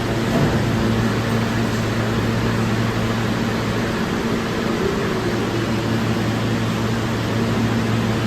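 Steady hum and rumble of subway station equipment and ventilation on a New York City subway platform, holding even throughout with no train arriving or departing.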